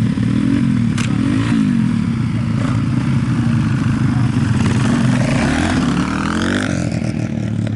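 Racing motorcycles on an ice track, engines revving up and down as the bikes go round. One bike's engine swells louder, rising and then falling in pitch, about five to six seconds in as it passes.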